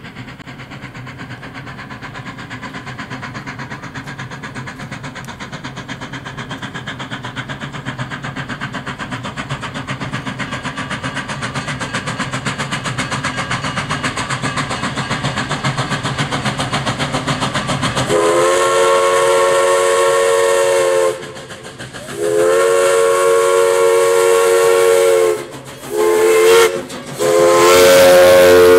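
A train approaching, its running sound growing steadily louder with a fast regular beat. About eighteen seconds in, its whistle blows long, long, short, long: the standard grade-crossing signal.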